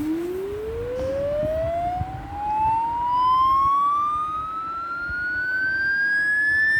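A single electronic tone sliding slowly and steadily upward in pitch, from low to high, without a break.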